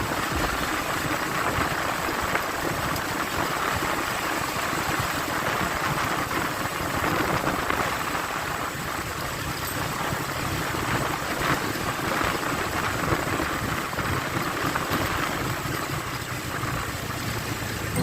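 Motorcycle on the move heard from the rider's seat: a steady rush of wind and road noise with the engine running underneath.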